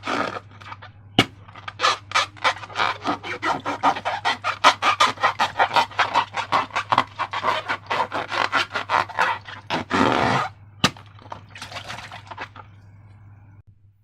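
Slime being squeezed and worked by hand: a fast run of wet crackling pops, about three or four a second, fading out near the end. Two sharp clicks stand out, about a second in and near eleven seconds.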